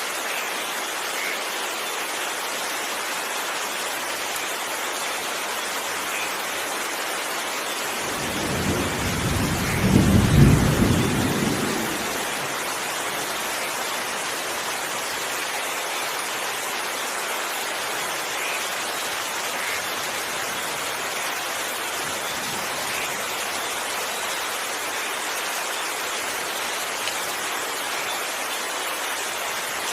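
Steady rain falling, with one rumble of thunder about eight seconds in that swells and dies away over roughly four seconds.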